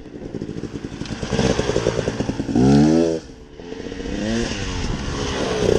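Dirt bike engine revving on a trail ride. The pitch climbs sharply as the throttle opens about halfway through, the loudest moment, then drops before a second, smaller rev.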